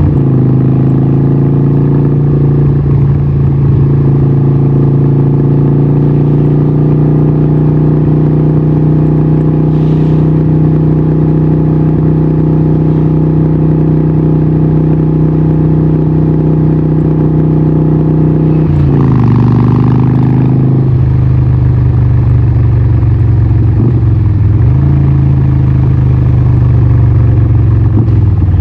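Harley-Davidson 1200 Nightster's 1200cc Evolution V-twin running loud through a Vance & Hines exhaust, holding steady revs for most of the time. About two-thirds of the way in the engine note drops lower and stays there, with a couple of brief dips near the end.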